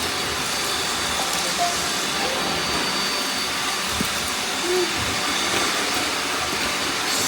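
Many robot vacuum cleaners running at once: a steady whirring hiss of their fans and brushes, with a faint high whine and a single knock about four seconds in.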